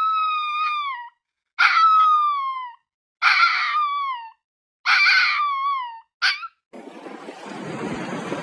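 A dog whining in long, high, wailing cries, about five in a row, each about a second long and falling in pitch at its end. A steady rushing noise, like wind, takes over about two-thirds of the way through.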